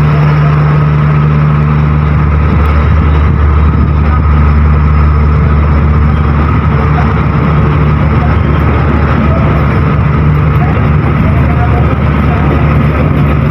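Diesel locomotive engine running with a loud, steady low drone.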